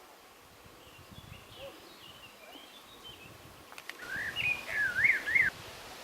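Songbirds singing: faint high chirps, then about four seconds in a closer bird sings a short, louder phrase of quick rising and falling whistled notes. A couple of faint clicks come just before the louder phrase.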